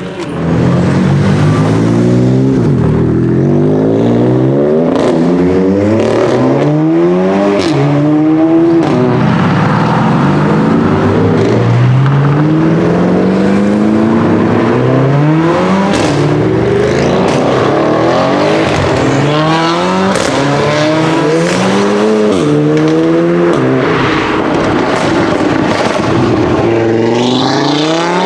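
Audi RS3 8V's turbocharged five-cylinder, through a Milltek exhaust, accelerating hard again and again: the engine note climbs through the revs, drops back at each gear change, and climbs again. Sharp pops and crackles come from the exhaust between the pulls.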